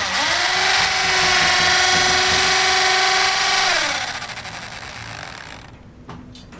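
Handheld electric power tool spinning up, running at a steady high whine for about three and a half seconds, then winding down around four seconds in.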